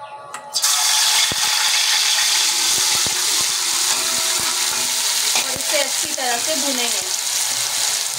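Chopped ginger and garlic frying in hot oil in an aluminium pot: a loud sizzle starts suddenly about half a second in and keeps going, with a spatula stirring and clicking against the pot.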